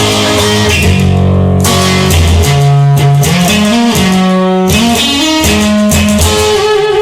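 Instrumental music led by electric guitar over a bass line, in a song's intro before the singing starts.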